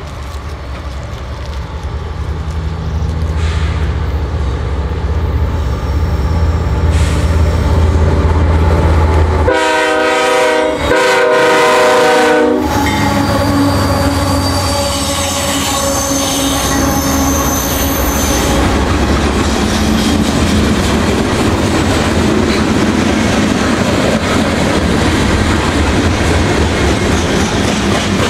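Canadian Pacific diesel locomotives approaching, engine rumble growing louder, then the air horn sounding about ten seconds in: a short blast and a longer one. The lead units pass close with high-pitched wheel squeal on the curve, then coal cars roll by with a steady clatter.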